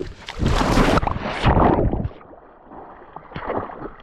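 Water splashing as people jump off into the lake: two loud splashes in the first two seconds, then quieter sloshing of water.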